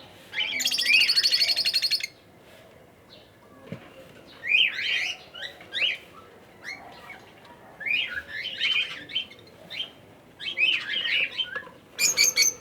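Small parrots chirping in a mixed aviary of cockatiels and African lovebirds. There is a fast, rattling chatter for about a second and a half near the start. After that come bursts of short rising chirps every few seconds.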